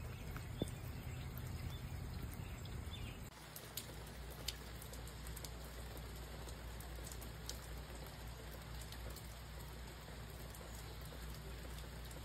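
Steady rain pattering, with scattered faint drip ticks, as water runs down a cup-style rain chain. The background changes abruptly about three seconds in.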